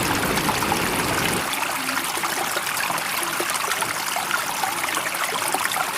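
Steady running water: an even rush with many small splashes through it.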